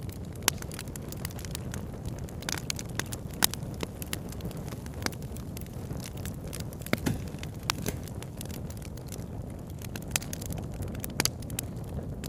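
Campfire crackling, with irregular sharp pops of burning wood, a few louder than the rest, over a steady low rush.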